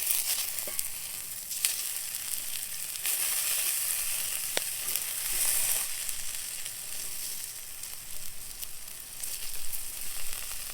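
Potatoes sizzling in hot oil in a cast iron skillet, a steady frying hiss with a few sharp pops.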